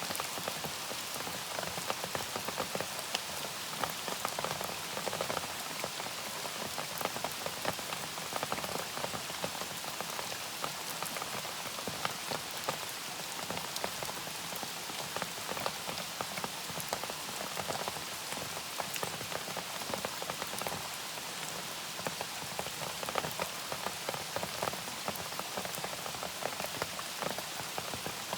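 Steady rain falling, many separate drop hits landing close by over an even hiss, holding at the same level throughout.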